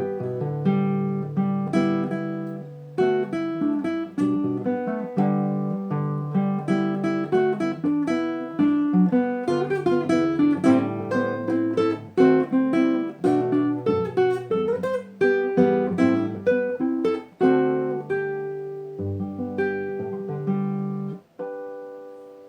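Acoustic guitar playing a tune over plucked chords. Near the end there is a brief break, then a final chord rings out and fades.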